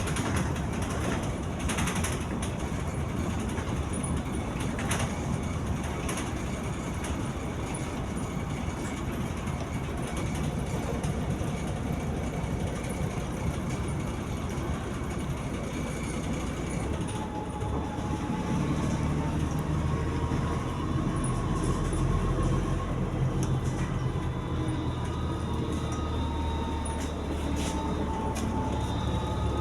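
MAZ-203 city bus running on the road, with steady engine and road rumble and scattered rattles. About two-thirds in, the engine note comes up stronger and rises as the bus accelerates, then levels off.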